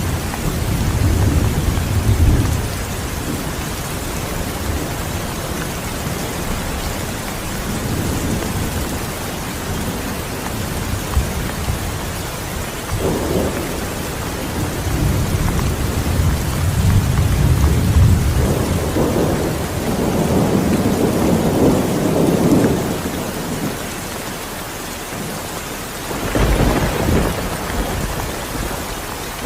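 Steady rain falling, with several long, low rolls of thunder rising and fading through it.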